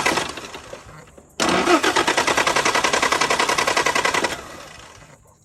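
Starter motor cranking a 1974 Land Rover Series 3's 2.25-litre four-cylinder petrol engine in two tries: the first trails off just after the start, then a second try of about three seconds of rhythmic cranking begins about a second and a half in and fades away near the end.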